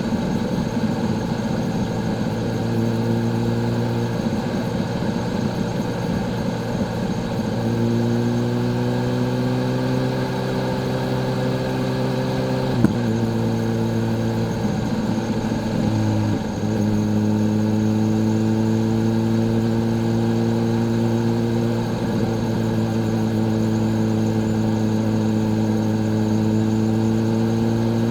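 Kawasaki Z H2's supercharged inline-four engine pulling in gear with a slowly rising pitch. The pitch drops suddenly about 13 s in, with a click, and dips again about 16 s in, like gear changes. It then runs steadily, its pitch creeping up.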